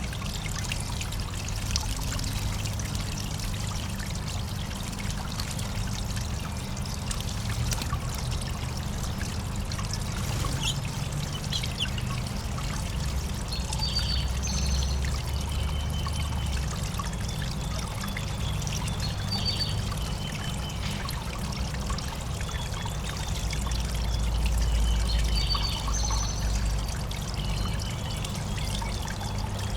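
Water trickling and pouring steadily into a backyard bird bath. Short high bird chirps come in about halfway through and again near the end.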